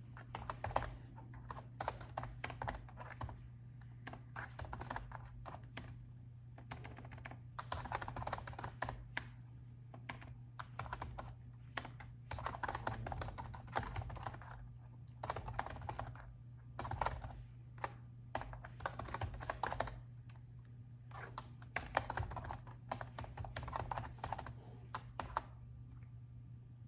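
Typing on a laptop keyboard: runs of quick key clicks broken by short pauses.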